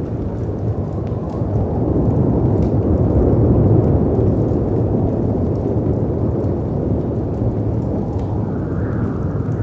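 Storm ambience: a dense, low rush of wind and surf that swells a few seconds in and eases again, with scattered small crackles and pops from a wood fire on top.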